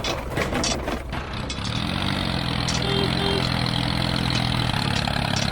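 Engine idling steadily, with a few clicks in the first second.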